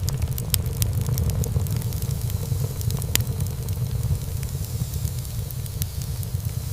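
Wood fire burning in a fireplace: frequent small crackles and pops of burning wood, one sharper pop about three seconds in, over a steady low rumble.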